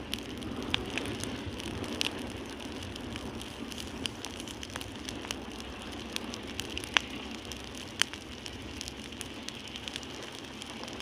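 Wood campfire burning, with irregular sharp crackles and pops over a steady hiss.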